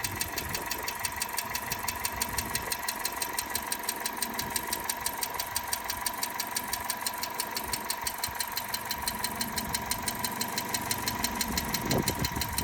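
Hyundai Getz 1.6 four-cylinder petrol engine idling with a pretty bad tap, an even tapping about six times a second. The owner takes it for valve train noise after the car sat for a long time, which could just be the bad oil. There is a brief low thump near the end.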